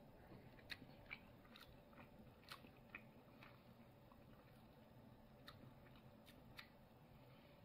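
Near silence with faint, irregular clicking of a person chewing a mouthful of cooked filefish.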